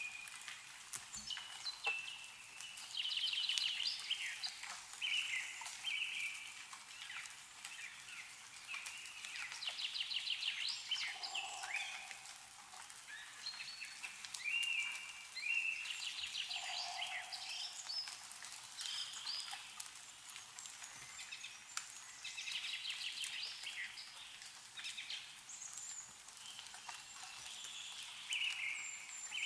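Songbirds calling over and over in short chirping and trilling phrases over a steady hiss, with scattered light ticks of melting snow dripping from the trees.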